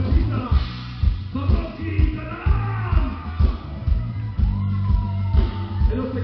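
Live rock band with heavy bass, guitar and drums, a singer's voice bending over the top.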